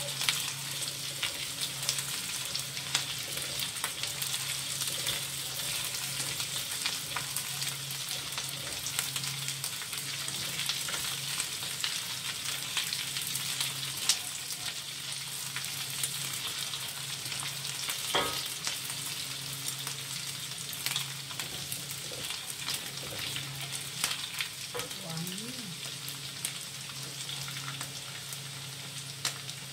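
Dried anchovies (ikan teri) sizzling and crackling as they fry in oil in a wok, with a spatula scraping and tapping against the wok as they are stirred.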